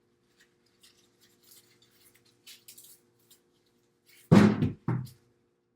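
Light scraping and rubbing as refrigerator parts are handled, over a faint steady hum, then two loud thuds a little over four seconds in, half a second apart.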